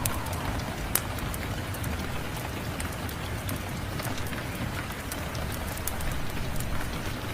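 Steady rain falling, with scattered sharp crackles and pops from a wood fire; one pop stands out about a second in.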